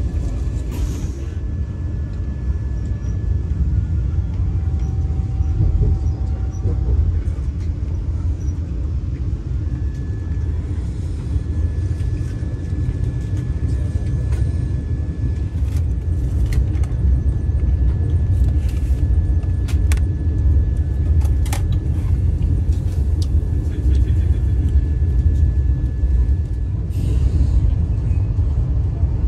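Vande Bharat Express electric trainset in motion: a steady low rumble, with a few sharp clicks in the second half.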